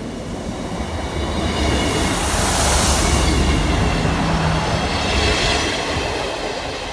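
Class 158 diesel multiple unit passing, engine rumble and wheels on rail building to their loudest about three seconds in and then fading away.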